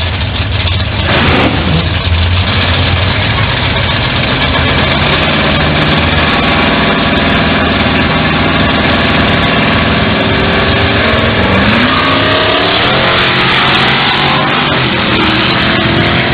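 Loud drag-racing car engines running at the starting line, with a short rev about a second in. From about eleven seconds in the engine pitch climbs as the cars rev up and pull away.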